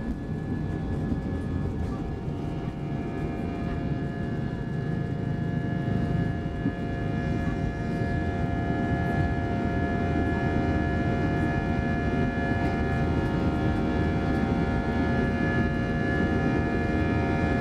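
Airbus A320 cabin noise from its IAE V2500 engines and the airflow, heard from a front seat: a steady drone with several held high tones. It grows a little louder about eight seconds in.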